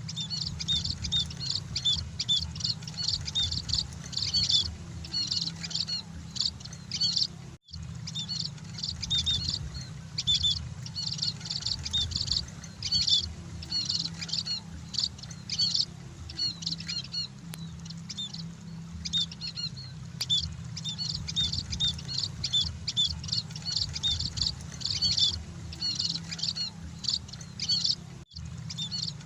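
Munias (burung emprit) chirping: a dense, continuous stream of short, high chirps, many overlapping, broken by a momentary gap twice. A steady low hum runs underneath.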